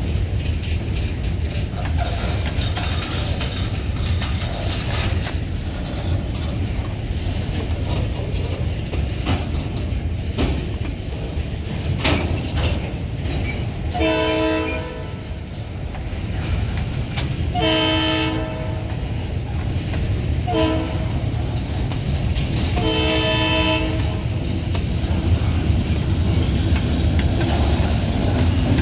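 Diesel locomotive horn sounding the grade-crossing signal, two long blasts, a short one and a long one, over the steady rumble of the moving train.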